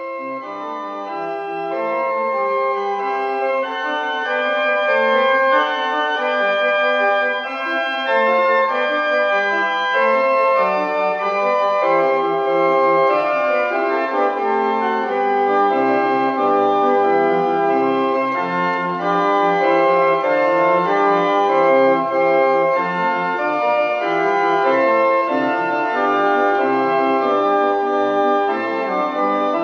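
Restored church pipe organ playing a piece in sustained chords, several notes held together and changing, growing louder over the first few seconds.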